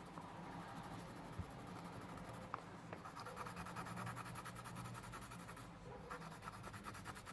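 Graphite pencil shading on paper: faint, steady scratching of strokes as the graphite is blended in, worked from top to bottom.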